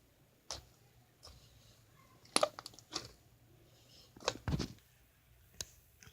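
Slime being handled, making a handful of short, irregular crunchy clicks and pops, the loudest a quick cluster about four and a half seconds in.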